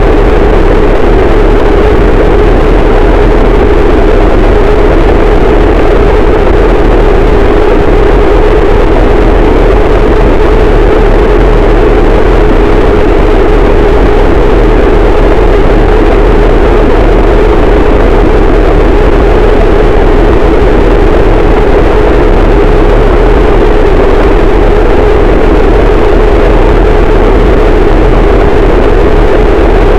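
Harsh noise wall: a dense, static wall of distorted noise, very loud and unchanging throughout, with a strong band in the low mids and heavy rumble beneath.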